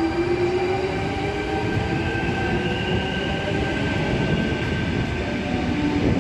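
Sydney Trains Tangara electric train (set T19) pulling away from the platform: steady running rumble with a motor whine that slowly rises in pitch as it gathers speed.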